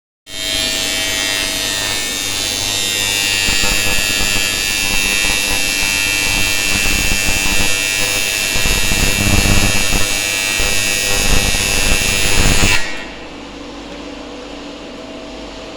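TIG welding arc from a 250 A TIG welder, a loud steady buzz and hiss that breaks off suddenly about 13 seconds in, leaving the machine's quieter hum.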